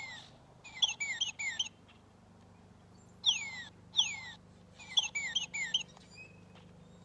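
Northern cardinal singing: clear whistles slurring downward, each phrase opening with long slurs and ending in a quick run of three or four short notes. The song is given twice, with a pause of about a second between the phrases.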